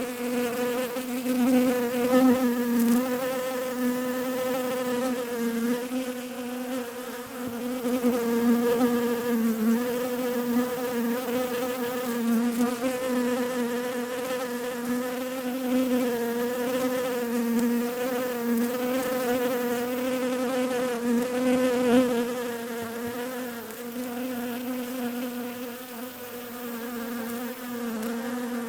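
Bees buzzing: a steady wingbeat drone with a buzzing overtone, wavering a little in pitch and swelling and fading in loudness.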